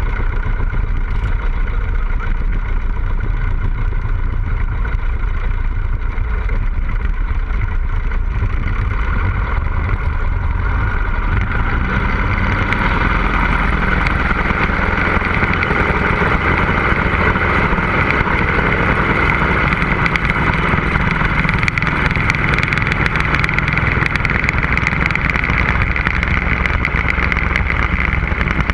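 Cessna 150L's four-cylinder Continental O-200 engine and propeller running steadily. The sound grows louder and brighter about twelve seconds in.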